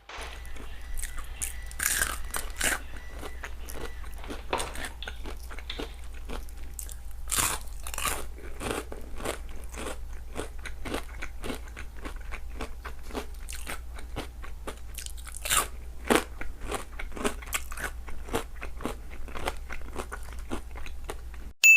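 Close-miked ASMR eating: a steady stream of bites, crunches and chewing, with a low hum underneath. A sharp ding sounds right at the end.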